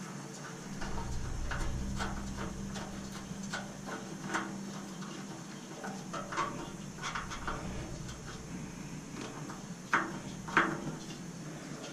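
Scattered light clicks and taps of hand tools on the steel of a stainless steamer being dismantled, with two sharper clicks near the end.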